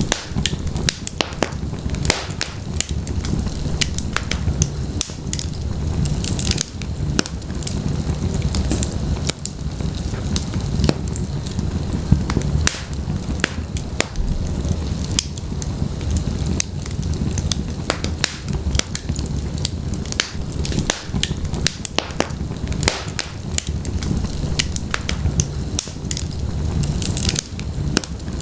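Wood fire burning in a fireplace: logs crackling and popping with many sharp snaps over a steady low rumble of flame.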